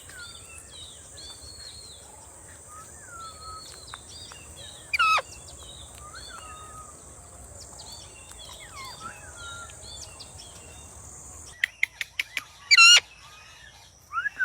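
Parrot calling: soft chirps and whistles throughout, one loud call that sweeps down in pitch about five seconds in, and a quick run of sharp clicks followed by a loud screech near the end.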